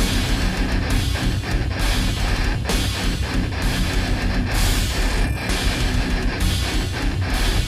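Heavy rock music with distorted electric guitars, bass and drums playing a steady beat, without vocals.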